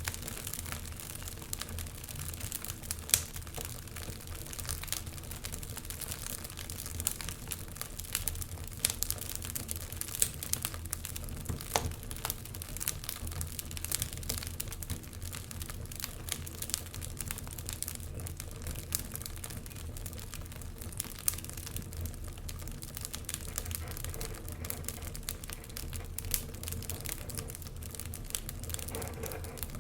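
Wood fire crackling steadily in a fireplace, with irregular sharp pops and snaps over a low rumble of the burning.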